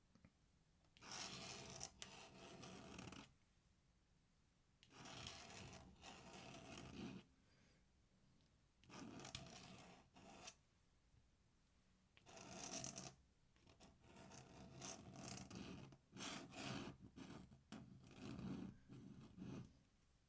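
Pen nib scratching across paper in bursts of inking strokes, each a second or two long with short pauses between, coming closer together near the end.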